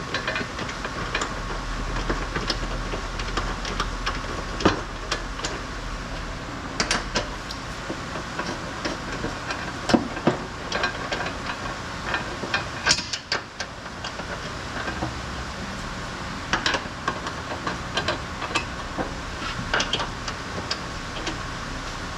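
Irregular metallic clinks and knocks of hand tools and parts being handled, over a steady workshop hum with a faint whine.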